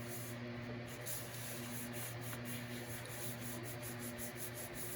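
Paper being rubbed down by hand onto a journal page to press a freshly glued pocket flat: a quick run of short, soft scuffing strokes. A steady low electrical hum sits underneath.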